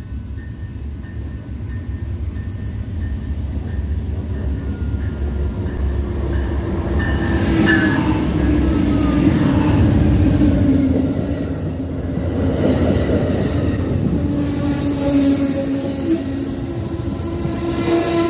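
Amtrak California Zephyr passenger train rolling along the tracks: a low rumble of wheels on rail that grows louder over the first ten seconds or so, with thin squealing tones above it.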